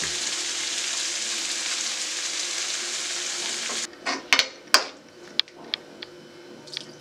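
Potatoes, bamboo shoots and black-eyed beans sizzling in hot oil in a nonstick kadai while being stirred with a metal spoon. About four seconds in the sizzle cuts off suddenly. After that the spoon clinks and scrapes against the pan as the dish, now with water in it, is stirred.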